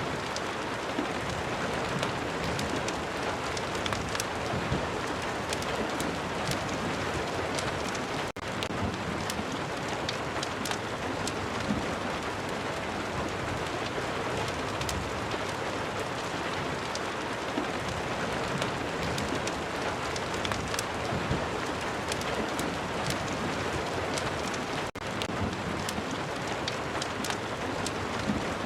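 Steady rain ambience mixed with a crackling fireplace: an even hiss of rain with many small sharp crackles and pops scattered through it. The sound dips out for an instant twice, about 8 and 25 seconds in.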